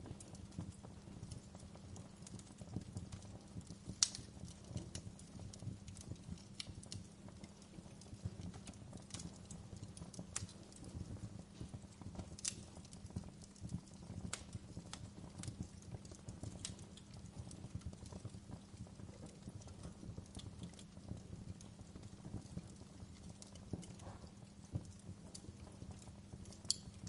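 Wood campfire crackling, with irregular sharp pops and snaps over a steady low rumble of burning, a few louder pops scattered through.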